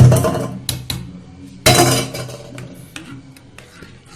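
Metal cookware clattering: two loud clanks with a short ring, one at the start and another about a second and a half later, then lighter clinks and taps.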